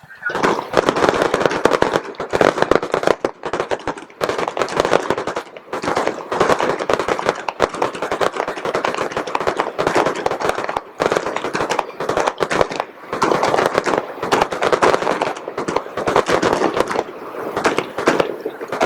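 Fireworks display: a dense, rapid barrage of bangs and crackles that starts abruptly and keeps going without a break.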